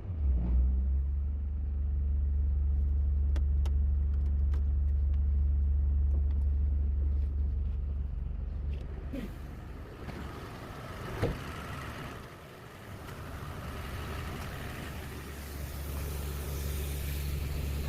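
A motor vehicle's engine runs with a steady low rumble that eases off about nine seconds in. There is a single sharp click a little after eleven seconds, and the rumble builds again near the end.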